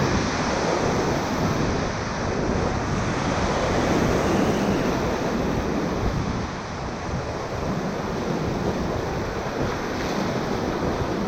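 Ocoee River whitewater rapids rushing steadily around a raft, with some wind noise on the microphone.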